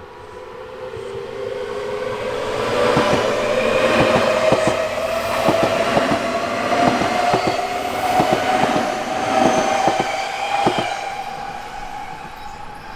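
Nankai Main Line electric train passing, its motor whine rising steadily in pitch while the wheels clack over rail joints; the sound builds, peaks in the middle and fades away.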